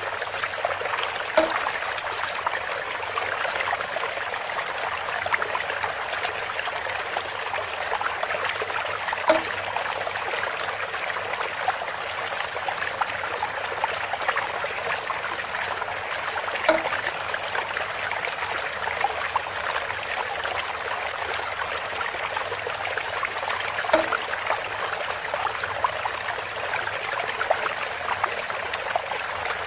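Water trickling steadily through bamboo, with a short louder knock about every seven and a half seconds, four times in all.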